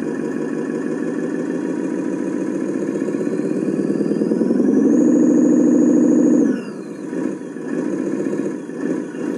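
Hino 500 truck's diesel engine being warmed up: it idles, revs up steadily from about three seconds in, holds high for a second or two, then drops abruptly back to idle.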